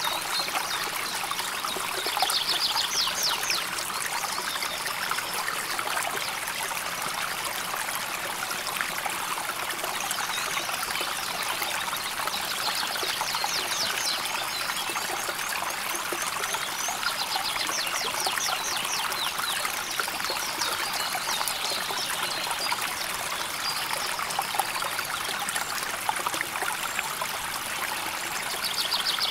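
River water flowing steadily, a continuous rushing and trickling. Several times, a rapid high trill of chirps sounds over it for a second or two.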